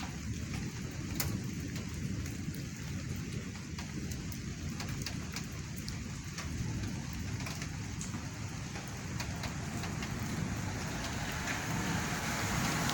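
Heavy thunderstorm rain falling steadily, with scattered sharp ticks of individual drops striking a surface. The downpour grows louder near the end.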